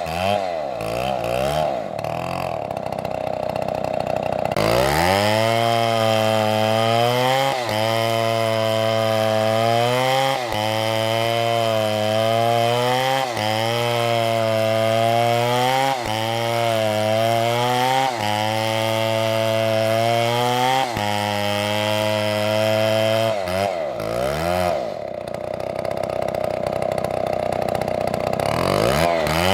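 STIHL two-stroke chainsaw engine running at high revs, its pitch dipping briefly every two to three seconds. It runs at lower revs for the first few seconds and again for a few seconds near the end.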